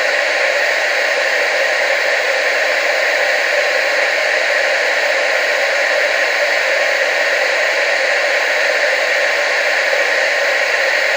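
TV static: a steady hiss with most of its energy in the mid and upper range and little bass, unchanging in level.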